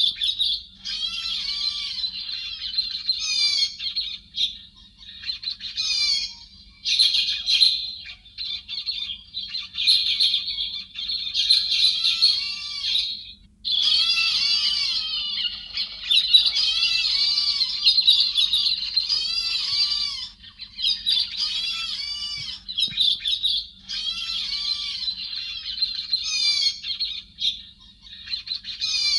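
Héc xoan thrush singing in repeated bursts of fast, looping whistled and chattering notes, each phrase a second or two long with short gaps between. This is a cleaned-up recording of the song used as a lure call for trapping.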